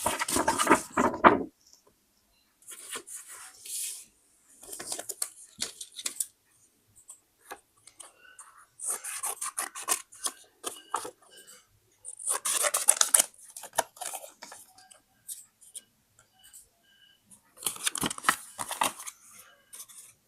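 Scissors cutting paper in several short bursts of crisp snipping, with quiet pauses between.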